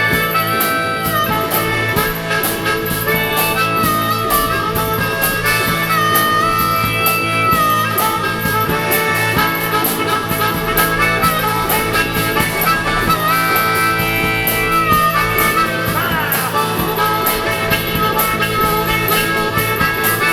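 Live band playing an instrumental break in a blues-rock song. A lead instrument holds long notes and bends them over a steady beat.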